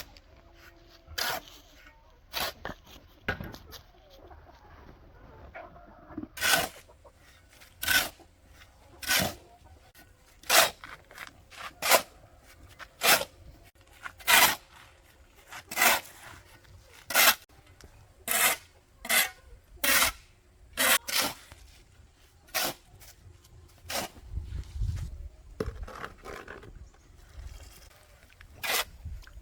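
Repeated short scraping strokes at a fairly even pace, about one every second and a half.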